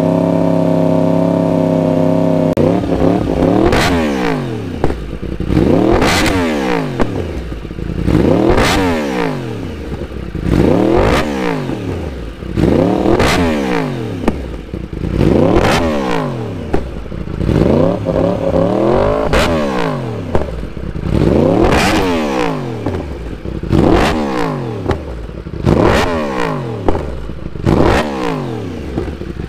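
Yamaha R1 inline-four through a carbon-fibre Hindle full-system race exhaust, on its first startup with the new system: running steadily for the first couple of seconds, then revved up and let fall back again and again, about every two seconds.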